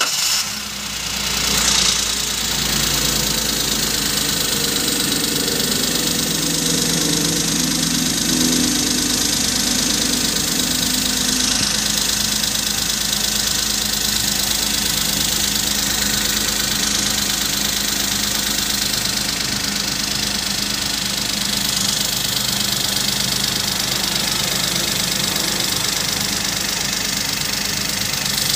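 Daihatsu Ayla / Toyota Agya 1.0-litre three-cylinder engine just started after an oil change with Shell Helix HX7 5W-40, settling within the first two seconds into a steady idle. Its oil filler cap is off, so the turning camshaft and valvetrain are heard through the open filler neck.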